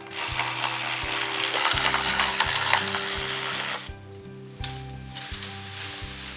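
Makita 18V cordless reciprocating saw cutting bamboo with a rasping, chattering sound. It stops for a moment just before the middle and starts again. Background music plays underneath.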